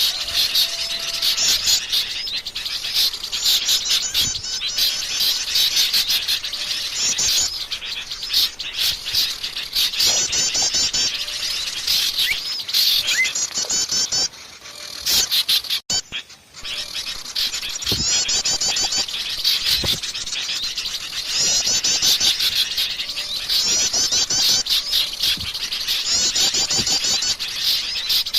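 A dense chorus of many small songbirds chirping and trilling over one another, a bird-lure recording of mixed small-bird calls. The chorus briefly drops out about halfway through, then resumes.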